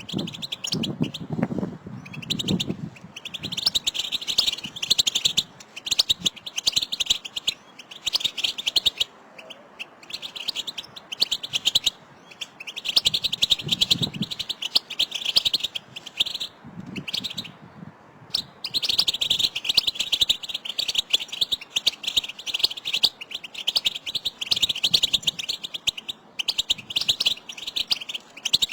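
European goldfinches twittering together: phrases of rapid, high chirping calls a second or two long, broken by short pauses. These are the excited contact calls ('batbata') that goldfinches use to call to one another, which set a male goldfinch singing.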